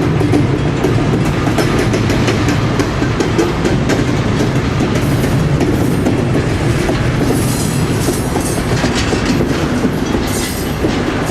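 Railroad cars rolling past: a steady rumble with wheels clacking over the rail joints.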